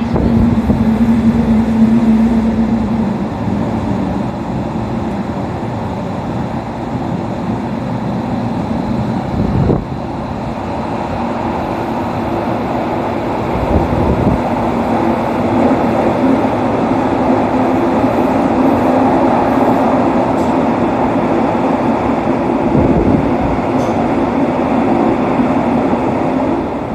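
Kyoto Municipal Subway Tozai Line 50 series train with its original Mitsubishi GTO-VVVF traction equipment running through the tunnel: steady wheel-on-rail rumble with a motor hum at the start and again in the second half, and a single knock about ten seconds in.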